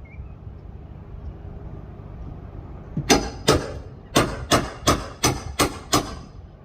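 Eight sharp knocks on a hard surface, about three a second, starting about three seconds in over a steady low rumble.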